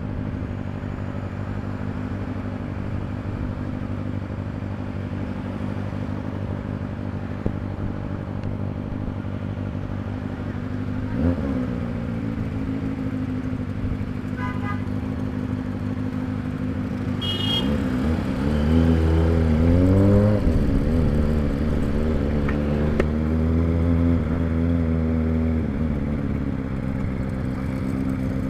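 Kawasaki ZX-25R's 249 cc inline-four engine running at a steady pitch, with a short blip of revs about a third of the way through. Past halfway the revs climb and fall a few times, then it runs louder and steadier, easing off near the end.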